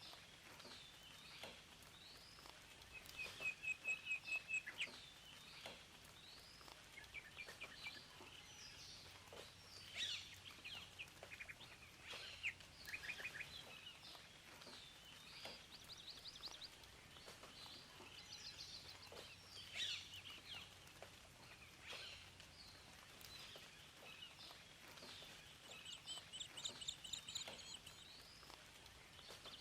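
Several songbirds chirping and singing, with short whistled notes and rapid trills, the loudest a quick run of repeated notes about three seconds in, over a faint steady background hiss.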